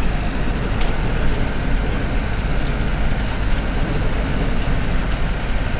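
Truck on the move: a steady, loud mix of engine rumble and road noise.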